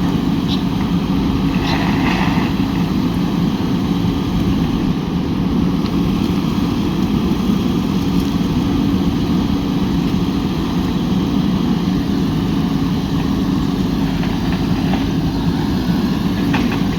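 Heavy machine's diesel engine running at a steady speed, with a few faint short clicks near the start and near the end.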